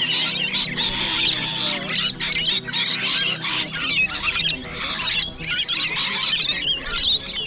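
A feeding flock of parrots, mostly lorikeets, screeching and chattering over one another in a dense, continuous din.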